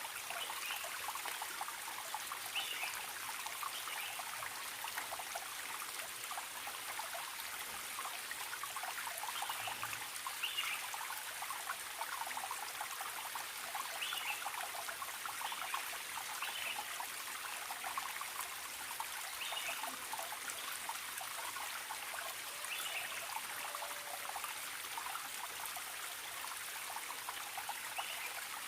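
Forest stream trickling and babbling steadily, with short bird calls repeating every few seconds over it.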